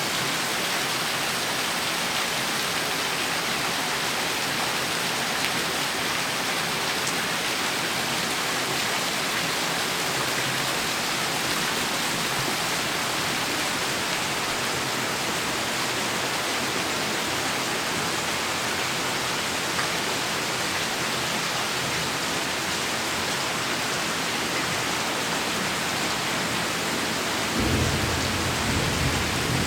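Heavy rain falling steadily in an even hiss. About two seconds before the end, a low rumble of thunder comes in.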